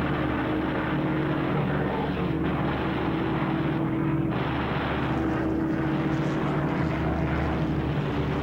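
Propeller-driven aircraft piston engines droning steadily in flight.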